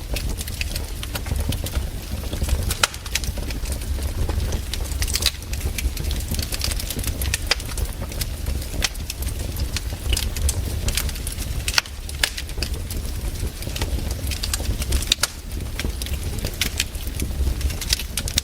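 Wood campfire crackling, with frequent sharp irregular pops over a steady low rumble.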